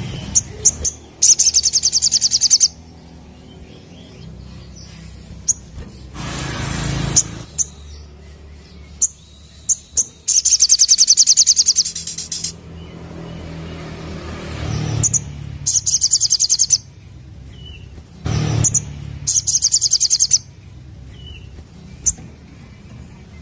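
Sogok ontong sunbird singing: four bursts of fast, high, buzzy trilling, each lasting one to two seconds, with single sharp chip notes between them. A low steady rumble runs underneath, with a brief rush of noise about seven seconds in.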